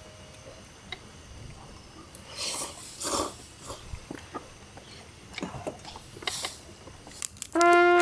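Scattered small clicks and short rustling noises of objects being handled, the loudest about two and a half, three and six seconds in. Brass-led music comes in near the end.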